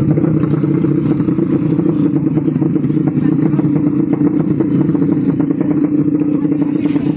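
Drag-racing motorcycle engine running loud and steady with a rapid crackle, cutting off abruptly near the end.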